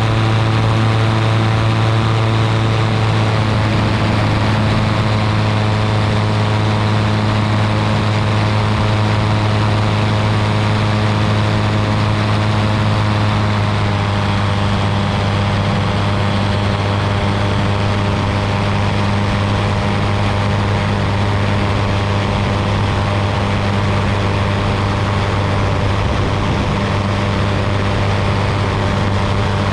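Ultralight aircraft's engine and propeller running steadily in flight, a loud drone whose pitch shifts slightly about three seconds in.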